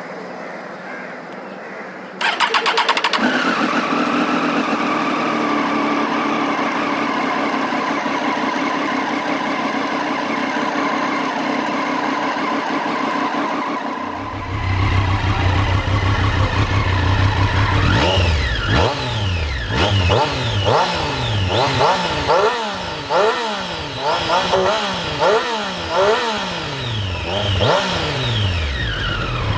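Triumph Street Triple 765S's three-cylinder engine cranking briefly about two seconds in, catching and idling at a fast idle that settles slightly lower. From about halfway through the exhaust gets deeper and louder, then the throttle is blipped repeatedly, the revs rising and falling quickly about a dozen times.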